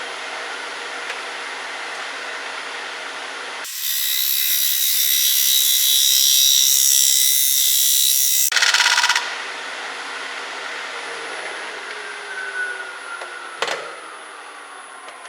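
Grizzly wood lathe running as a turning tool shear-cuts spalted oak. A loud cutting hiss lasts about five seconds, followed by a brief rapid chatter. Then the lathe winds down with its pitch falling, and there is a single sharp click near the end.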